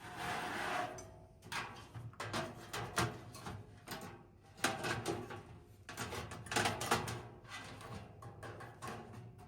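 Irregular clicks, knocks and rattles of hard parts being handled, with a short rushing noise at the start.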